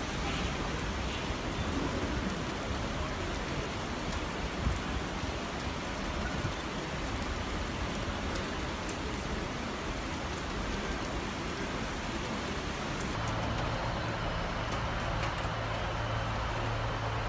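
Steady hiss of rain. About three-quarters of the way through the hiss drops and a steady low hum takes over.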